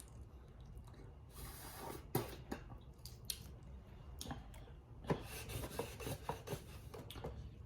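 Boiled crawfish being peeled by hand: scattered small cracks and clicks of shell with short rustles and wet squishes.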